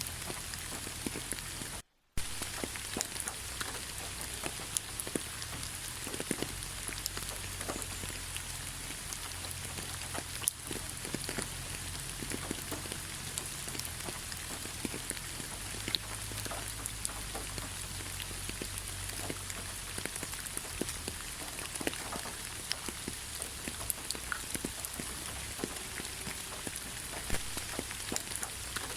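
Steady rain falling, with many separate drops striking close by over a continuous hiss. The sound cuts out completely for a split second about two seconds in.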